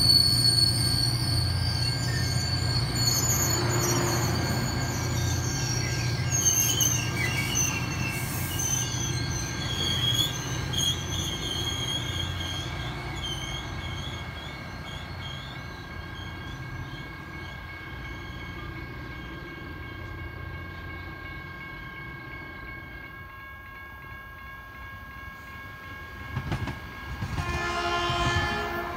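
Caltrain bilevel commuter train pulling away past the platform, its low rumble and high wheel squeal fading as it leaves. Near the end an approaching Caltrain train sounds its horn.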